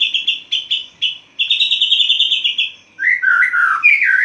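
White-rumped shama singing: a fast rattling trill of rapidly repeated high notes, broken by short gaps. About three seconds in, it gives way to a run of lower, gliding whistled phrases.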